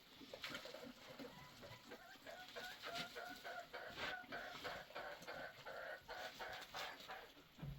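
Faint hen clucking: a run of short, quick repeated calls, several a second.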